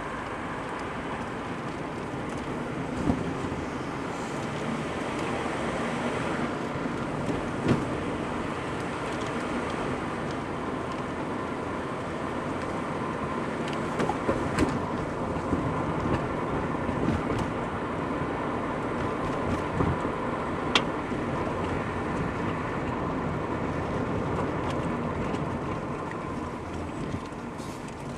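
Car running at low speed, heard from inside the cabin: a steady engine and tyre drone with a few short knocks and clicks scattered through it.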